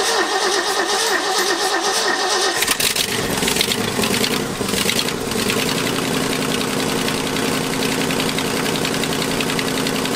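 1974 Ford F350's 460 V8 cranking on the starter, catching a little under three seconds in and then running and settling into a steady idle. It shows that the truck's mechanical fuel pump is drawing fuel.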